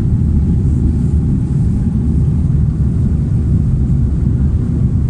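Steady low rumble of cabin noise inside an Airbus A330-300 airliner.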